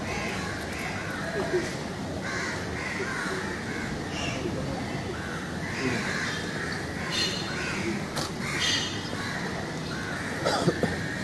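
Birds calling again and again, short arching calls over a steady background noise.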